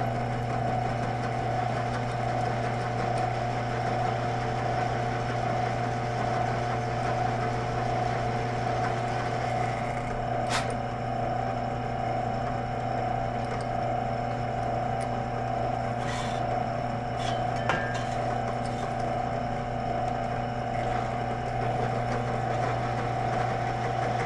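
Drill press motor running steadily while it drills a spur's worn rowel-pin hole, with a few sharp clicks about ten seconds in and again around sixteen to eighteen seconds in.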